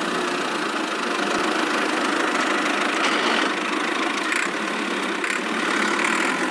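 Motor of a miniature DIY machine running steadily, an even mechanical whirr with no low rumble.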